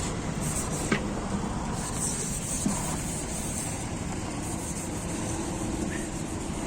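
Steady background noise of a car repair workshop, with two short sharp taps, one about a second in and one nearer three seconds.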